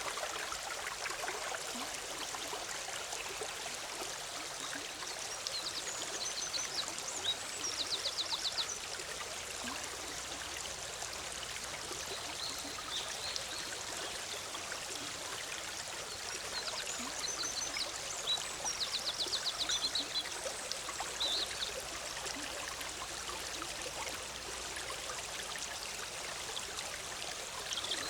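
Forest stream bubbling steadily over rocks, with a small bird breaking in several times with short, fast high-pitched trills.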